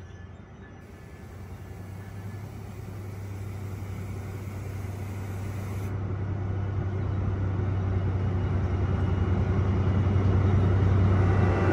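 NJ Transit train approaching: a steady low engine drone and rumble that grows steadily louder.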